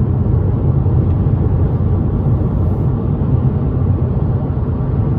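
A car driving at highway speed: a steady, low rumble of road and engine noise.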